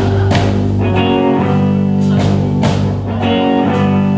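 Live band playing a blues-rock number, guitar chords ringing over sharp rhythmic hits.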